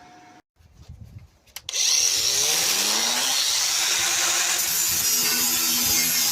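A few faint knocks, then about two seconds in an electric angle grinder starts up, its whine rising as the disc spins up, and runs steadily and loudly against sheet steel.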